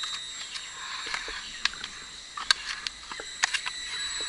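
Shoes and hands scuffing and tapping on rough stone steps during a climb: scattered short taps and scrapes over a faint steady high-pitched whine.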